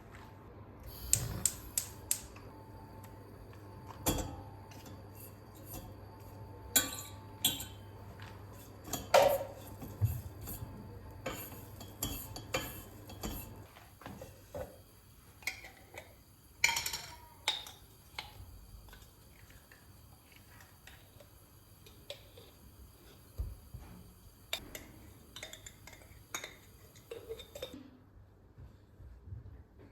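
Dishes, pots and cutlery being handled, with irregular clinks and knocks of crockery and metal utensils that stop shortly before the end.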